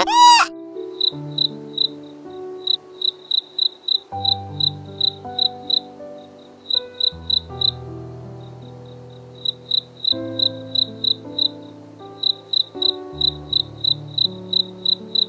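Crickets chirping: short high chirps about three a second, with a couple of brief pauses, over soft background music. A short bleat-like call sounds right at the start.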